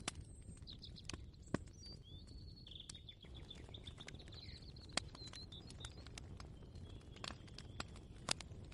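Kitchen ambience: scattered light clicks and knocks at irregular moments over a low steady rumble. A small bird chirps and twitters through the first half.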